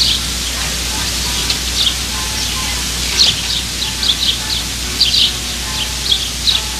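A small bird chirping over and over: short, high, falling chirps in irregular clusters, over a steady hiss.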